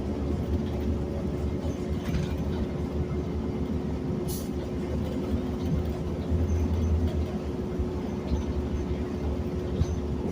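Interior of a city transit bus on the move: steady low engine and road rumble with a constant hum, and a brief high hiss about four seconds in.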